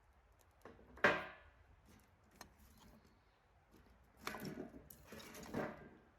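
A sharp knock about a second in that rings briefly, followed by two longer scraping, handling sounds.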